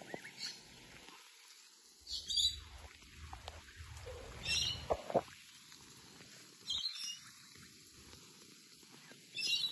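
A bird chirping in short high-pitched bursts, four times about two and a half seconds apart.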